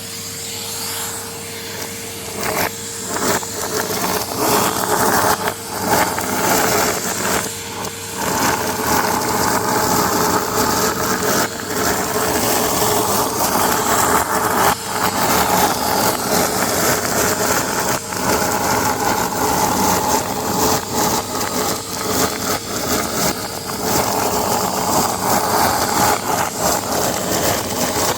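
Vacuum cleaner running, its rush of air full of a dense crackle of confetti rattling through the nozzle. The sound grows louder over the first few seconds.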